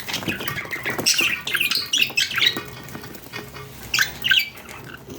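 Budgerigars chirping and chattering in quick short squawks, busy at first, thinning out, then a fresh burst of calls about four seconds in.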